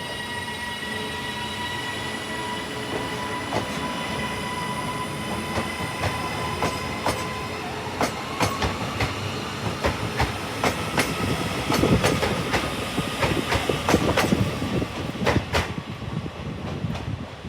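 A train moving along the track. A steady whine is heard at first, then wheels click over rail joints, the clicks coming more often and growing louder until they are loudest about twelve to fifteen seconds in.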